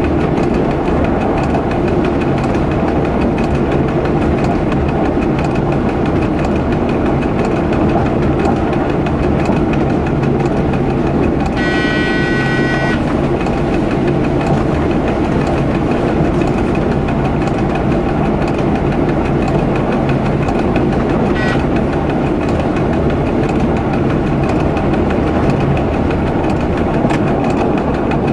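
Train running along the track, heard from the driver's cab: a steady rumble of the running gear and engine with wheel noise. A single pitched signal tone of a bit over a second sounds about midway.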